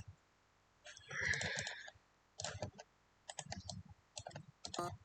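Scattered clicks of a computer mouse and keyboard while editing, with a brief soft hiss about a second in.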